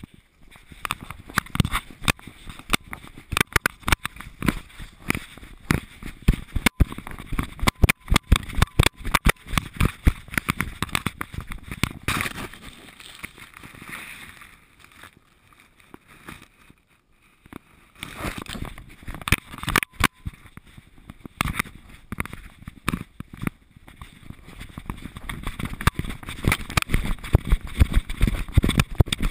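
Dense, irregular knocking and rattling of a GoPro in its housing strapped to a dog's harness, jostled as the dog moves, going quieter twice for a couple of seconds midway.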